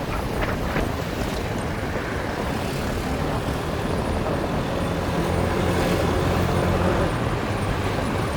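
Motorbike engine running steadily while riding, under road and wind noise. The engine hum gets a little louder about five seconds in.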